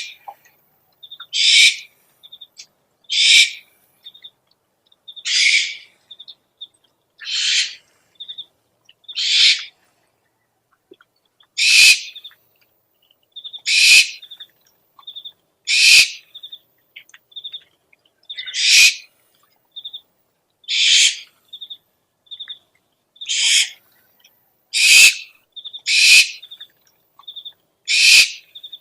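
An owl giving harsh, raspy screeches, each about half a second long, roughly one every two seconds. Short soft chittering notes come between them.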